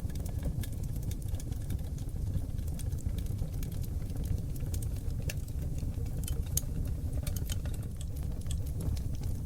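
Seasoned oak logs burning in a wood fireplace: a steady low rush of flame with frequent sharp crackles and pops.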